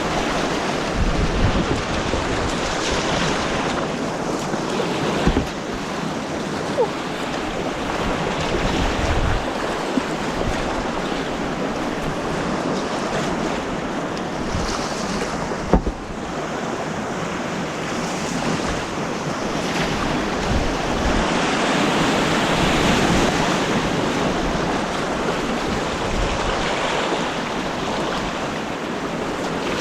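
Fast white water rushing down an artificial slalom course: a loud, steady rush, with wind buffeting the microphone. A few short sharp knocks sound over it, the loudest about sixteen seconds in.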